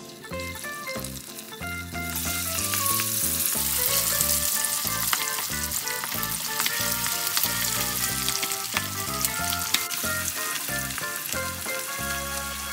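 Cornflour-and-egg-coated chicken thigh pieces dropped into hot oil in a wok, bursting into a loud, dense sizzle and crackle about two seconds in that keeps up as the pieces fry. Background music plays throughout.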